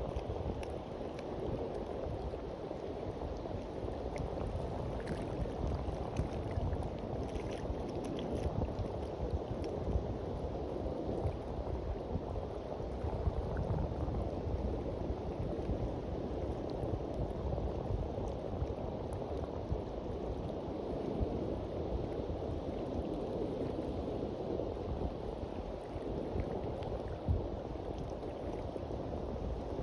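Sea waves washing gently onto the shore, a steady low wash of water with no breaks.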